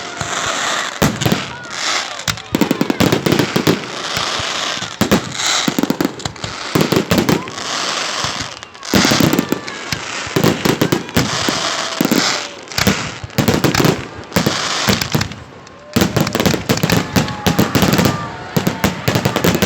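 Rapid barrage of firework bangs and crackles, shell after shell bursting in quick succession, with a couple of brief lulls.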